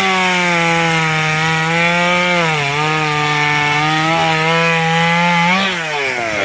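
Two-stroke chainsaw revved to full throttle and cutting through a log; its pitch sags a little about two and a half seconds in as the chain bites under load, and the engine drops back toward idle near the end.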